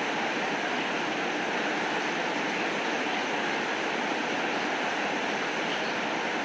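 Steady rain falling, a continuous even hiss with no breaks or changes.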